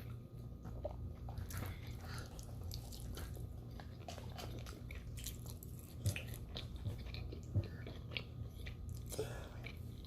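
Close-up chewing and biting of food, with wet mouth clicks and smacks, a few louder ones about six and seven and a half seconds in, over a low steady hum.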